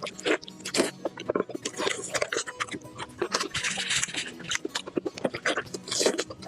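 Close-up chewing and biting of fatty meat: a fast, irregular run of wet mouth clicks and smacks.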